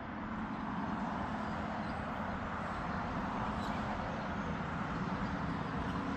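A steady motor hum with a rushing noise under it, like a vehicle running nearby.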